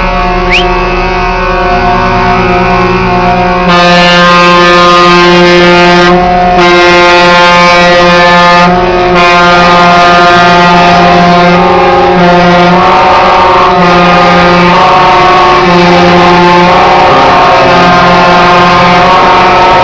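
Truck air horns sounding long, loud, steady chords that change pitch about every second, with brief breaks.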